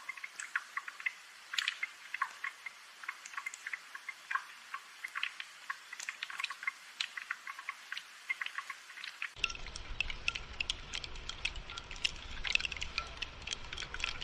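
Light rain, many irregular drops ticking and pattering over a soft hiss. About nine seconds in the sound grows fuller as a low rushing layer of rain comes in underneath.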